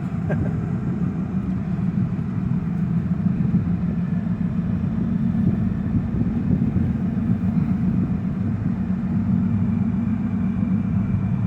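Steady low rumble of a car's engine running, even and unchanging.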